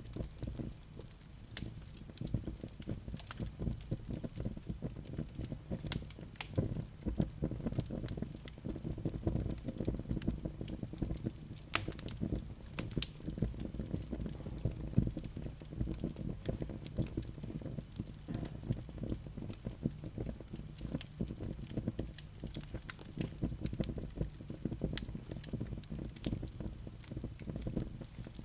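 Wood fire burning in a fireplace: a dense, irregular crackle of small pops over a low steady rumble of flame, with a few louder pops in the middle.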